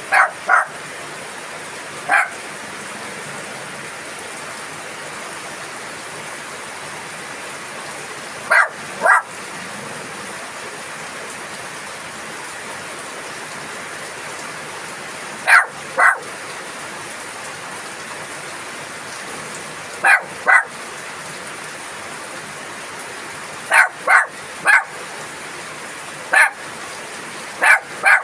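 Steady rain falling, with a dog barking in short single, double and triple barks every few seconds.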